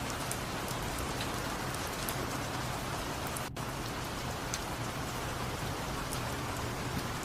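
Steady rain falling on a surface: an even hiss with scattered single drops ticking through it, with a momentary break about halfway through.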